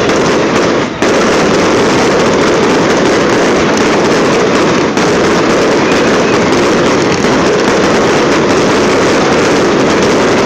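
Fireworks going off in a dense, continuous barrage: a loud, unbroken crackle of many bangs running together, with a momentary lull about a second in.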